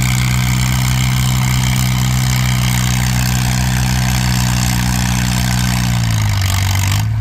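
Antique tractor engine running hard under load, pulling a sled down the track, with a steady hum over a rushing noise. About six seconds in the engine pitch drops, and near the end the rushing noise cuts off suddenly as the pull ends.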